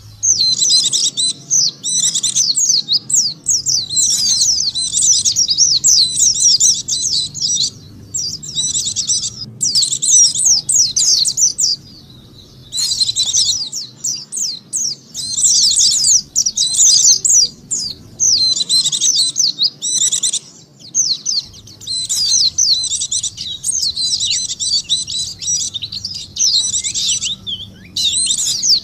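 White-eyes (pleci) singing: fast, high, twittering song phrases of a second or three each, broken by short pauses, used as a lure call to draw in white-eyes.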